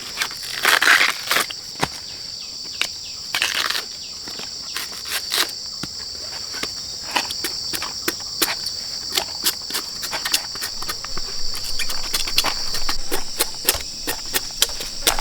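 Steady high-pitched insect chorus, with many short clicks and crackles close by, louder rustling bursts about a second in and again a few seconds later.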